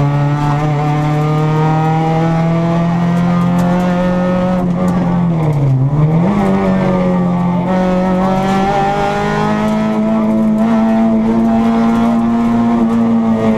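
Renault Clio 16v rally car's four-cylinder engine running hard, heard from inside the cabin. Its pitch climbs slowly, drops sharply about halfway through and comes straight back up higher, then rises again to a high held note that eases off near the end.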